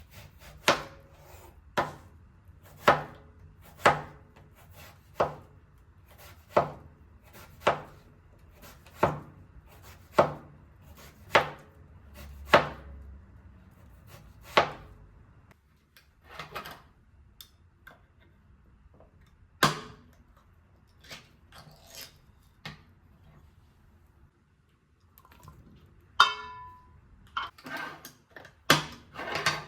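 Knife chopping on a wooden cutting board: slow, even strokes about one a second for the first half, then scattered lighter knocks and clicks, with a short ringing clink near the end.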